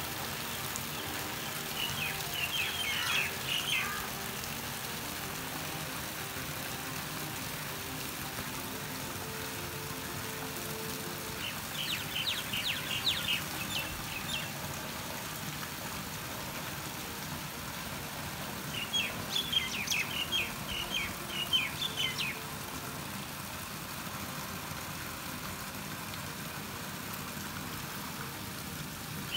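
Steady rain falling, with a songbird singing quick, high chirping phrases three times over it.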